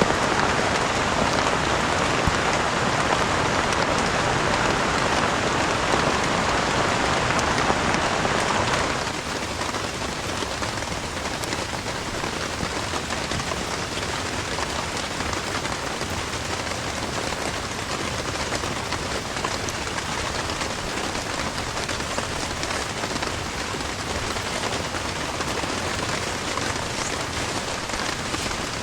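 Heavy rain falling steadily in a dense, even hiss; about nine seconds in it drops abruptly to a quieter, steady level.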